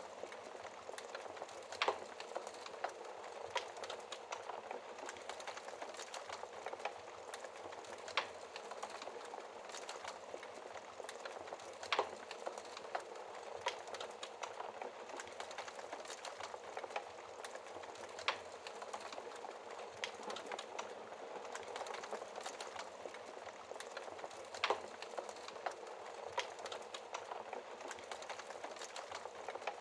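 Wood fire burning: a steady hiss of flames with constant small crackles and a louder sharp pop every few seconds.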